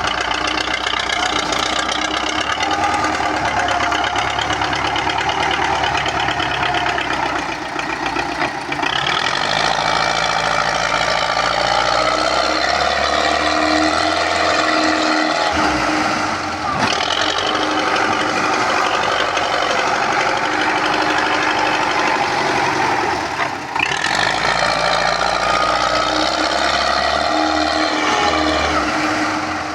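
MTZ tractor's diesel engine running steadily under load while pulling a loaded trolley through mud. The sound shifts abruptly about 8, 16 and 24 seconds in.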